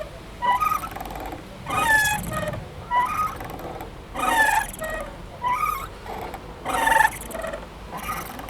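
Playground swing squeaking rhythmically as it swings back and forth, a creaky, gliding squeak at each end of its arc, about seven in all, roughly one every second and a quarter.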